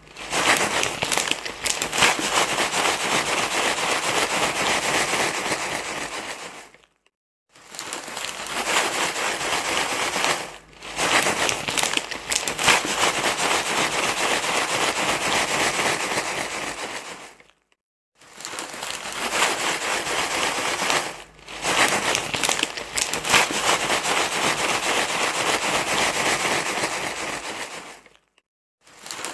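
Loud, continuous crinkling rustle, like material being crumpled and handled. It cuts out for about half a second roughly every eleven seconds, as the same stretch repeats.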